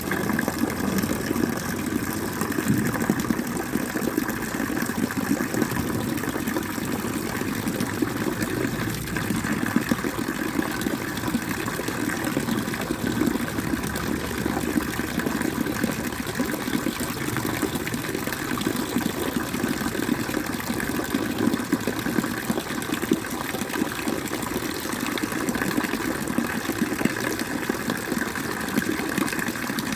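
Water gushing and pouring steadily.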